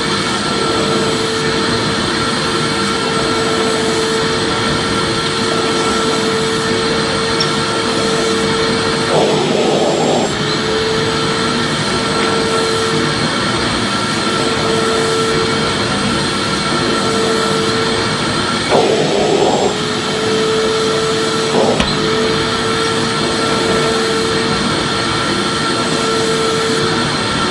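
A vacuum cleaner running steadily: a constant whooshing motor noise with a steady hum. It wavers briefly twice.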